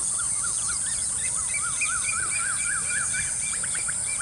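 Birds calling, many short chirps repeated several times a second, over a steady high-pitched insect drone.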